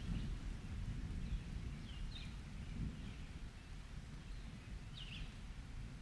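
Rain-and-thunder nature ambience: songbirds giving a few short, quick descending chirps, the clearest about two and five seconds in, over a low rumble of distant thunder that slowly dies away.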